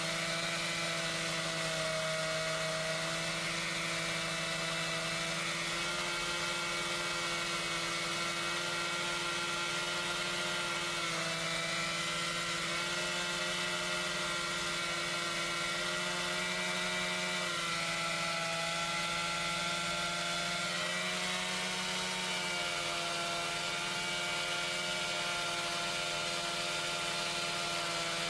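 Chainsaw running continuously at a steady high speed, a sustained whine whose pitch dips and recovers slightly a few times.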